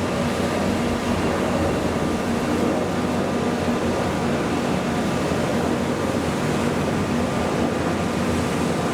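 Boat engines running with a steady drone and low hum.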